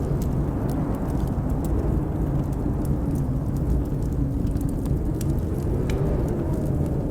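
Blizzard wind blowing steadily with a low rumble and a faint wavering howl. Sharp, scattered crackles from a wood fire burning in a fireplace sound over it.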